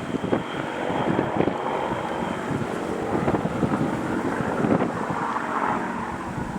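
Wind buffeting the microphone in uneven gusts, with a faint steady high whine that fades out early on.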